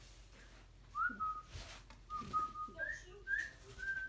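Pet bird whistling a string of about five clear notes. Each starts with a quick upward slide and then holds steady, and the last note is the longest.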